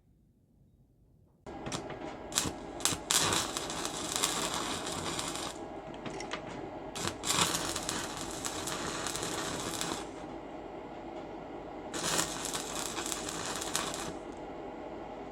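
A power abrasive tool, such as a grinder or sander, starts running suddenly about a second and a half in with a steady hum. Three times the sound swells into a louder hiss of metal being ground against it, with a few sharp clicks near the start.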